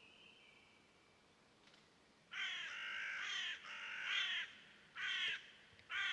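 A bird calling loudly four times, starting about two seconds in: two long raspy calls, then two short ones. A faint thin whistle from another bird comes near the start.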